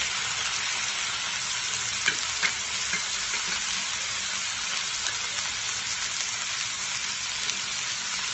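Boiled banana stem pieces sizzling in a pan of shrimp masala as they are stirred with a wooden spoon: a steady frying hiss. The spoon knocks against the pan a few times about two to three seconds in.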